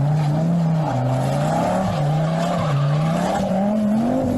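Car engine revving, its pitch rising and falling several times over a couple of seconds and dropping back near the end.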